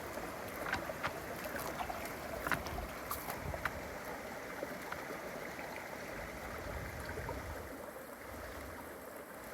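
Steady rushing of a creek, with a few light sharp taps scattered through the first four seconds.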